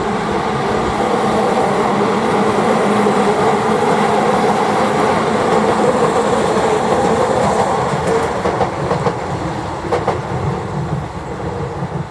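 Yokohama Minatomirai Railway Y000 series electric train running past, its wheels clacking over the rail joints. The sound holds steady, then fades over the last few seconds.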